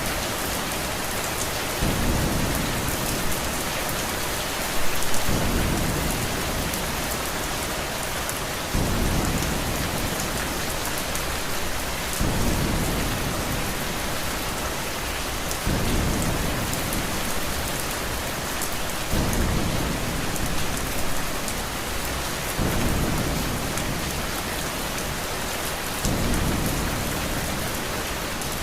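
Steady rain with a low rumble of thunder underneath that swells and fades about every three and a half seconds.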